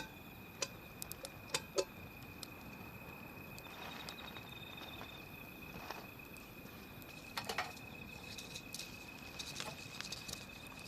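Wood fire crackling, with scattered sharp pops that cluster about a second in and again around seven and a half seconds. A steady high tone sounds faintly underneath throughout.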